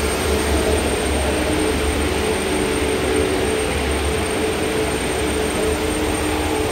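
Steam boiler's forced-draught burner running: a steady rush of fan and flame over a low hum, with a held mid-pitched tone.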